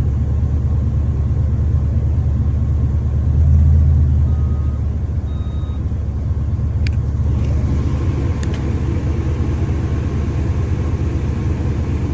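Steady low rumble inside a stationary car with its air conditioning running, swelling briefly about three and a half seconds in. Two short electronic beeps sound about four and five seconds in, and a couple of light clicks follow a few seconds later.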